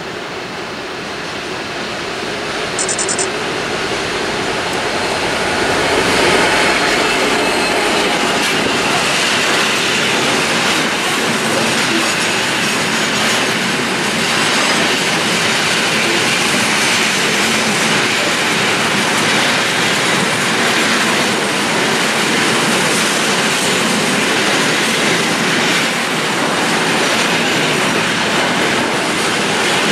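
Freight train passing: an M62M diesel locomotive approaches and goes by, growing louder over the first six seconds or so, followed by a long string of loaded ballast hopper wagons rolling steadily past on the rails.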